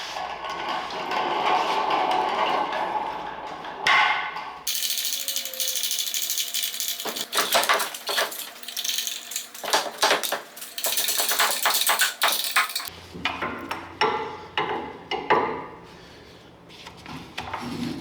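Irregular metal clanks, knocks and clatter from fitting a manual transmission up into a mini-truck's chassis. The sound changes abruptly twice, at about five and thirteen seconds.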